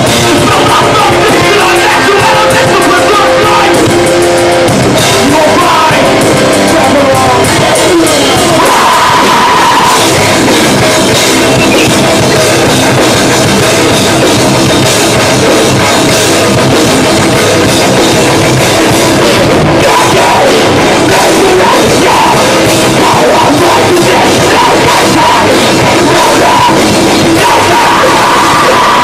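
Live metalcore band playing loud at a club show: distorted electric guitars and a pounding drum kit, with vocals in the mix, captured as a dense, steady wall of sound.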